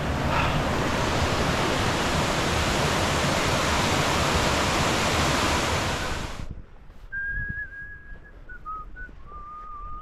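Waterfall's steady rush of falling water, cutting off abruptly about six and a half seconds in. Afterwards it is much quieter, with a few thin, held whistled tones, one sliding down in pitch.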